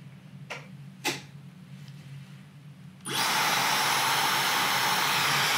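Two light clicks of handling, then about three seconds in the Dyson Supersonic hair dryer switches on and its airflow rushes out steadily, with a faint high whine.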